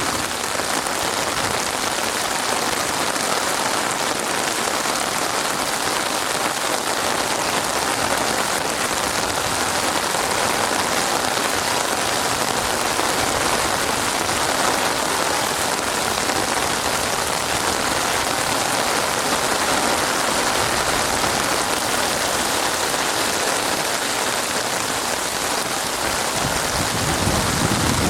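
Steady rain falling on a surface: an even, unbroken hiss of many drops. A low rumble swells in near the end.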